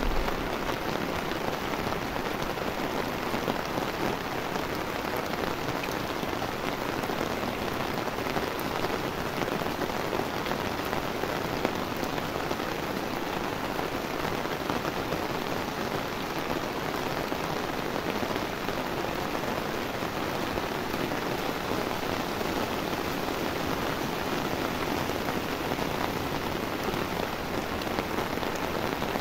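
Steady rainfall hitting the ground and surrounding surfaces, an even hiss.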